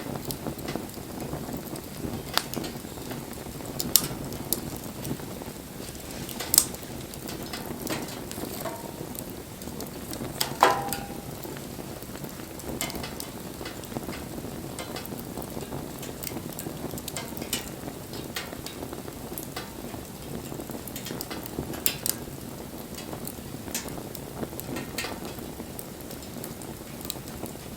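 Wood bonfire burning with a steady crackle and frequent sharp pops from the burning wood, a few of them louder, one about ten seconds in carrying a brief squeal.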